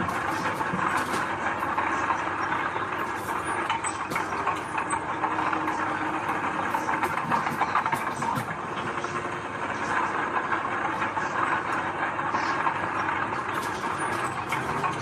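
Diesel engine of heavy earthmoving machinery running steadily, with frequent metallic clanks and rattles over it.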